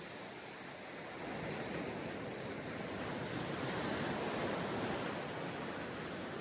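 Ocean surf breaking and washing up a beach. The rushing noise swells about a second in, is loudest around four to five seconds, then eases off a little near the end.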